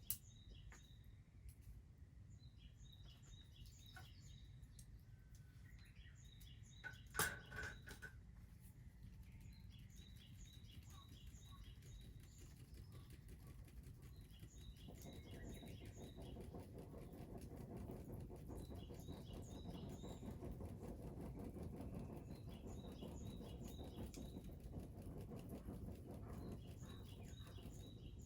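Faint outdoor ambience with small birds chirping in short repeated phrases every few seconds. There is a single sharp knock about 7 seconds in. From about halfway through, a low rushing noise rises underneath.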